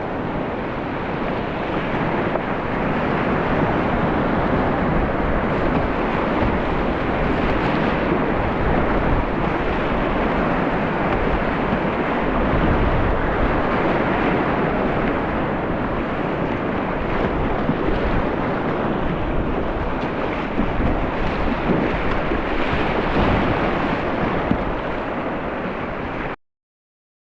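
Steady rush of fast-flowing river water in a mountain valley stream running high. The sound cuts out to silence for about a second near the end.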